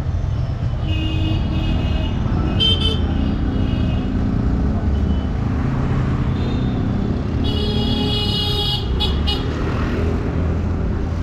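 Street traffic with vehicle engines running and several vehicle horn honks: two short ones early and a longer one about two seconds long that starts some seven seconds in.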